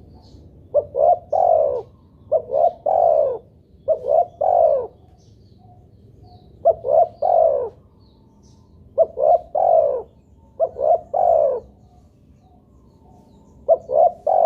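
Spotted dove (tekukur) cooing: about seven phrases, each two quick notes followed by a longer falling coo, with pauses of about a second or more between them.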